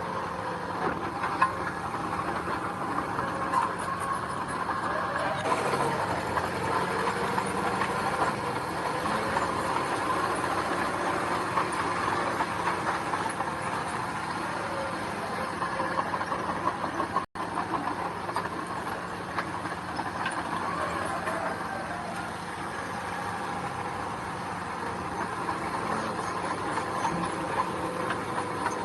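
Heavy machinery engine running steadily, with continual rattling and clanking from the machine at work on gravel. The sound briefly cuts out once about two-thirds of the way through.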